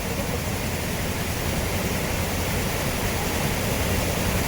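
Steady rushing of the Hogenakkal waterfall on the Kaveri river, a loud, even roar of falling water.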